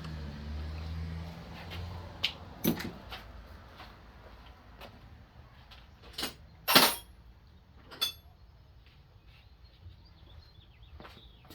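Hand tools being handled: a few separate sharp clinks and clatters of metal, the loudest about seven seconds in, with a low hum during the first two seconds.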